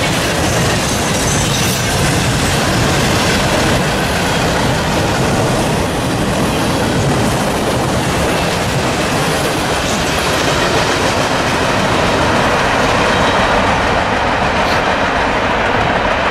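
Norfolk Southern freight train passing close by, its mixed freight cars (steel coil cars, boxcars and tank cars) rolling on the rails. The steel wheels on the track make a loud, steady rumble.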